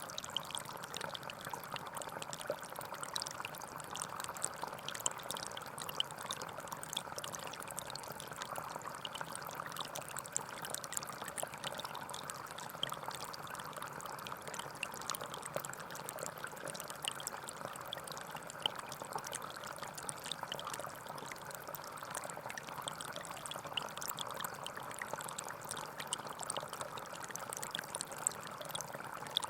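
Small forest stream flowing steadily, with water trickling and bubbling.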